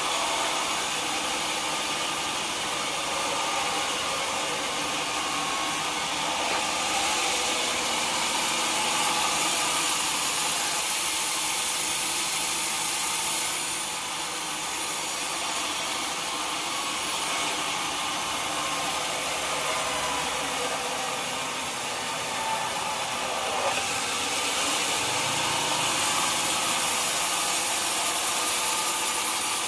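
A sawmill saw cutting through a log: a steady, continuous hiss-like noise from the blade in the wood, with no breaks.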